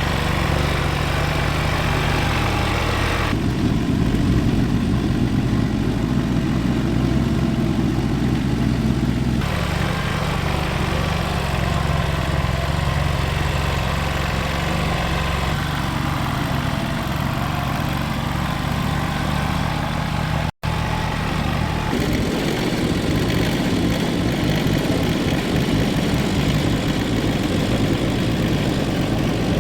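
An engine running steadily, heard in several cut-together stretches whose tone changes abruptly, with a brief dropout about two-thirds of the way through.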